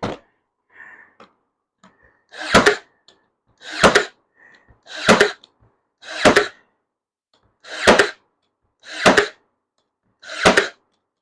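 Ryobi 18V AirStrike cordless brad nailer driving brad nails into cedar fence pickets: seven shots at an even pace, about one every 1.3 seconds, each a brief build-up ending in a sharp snap.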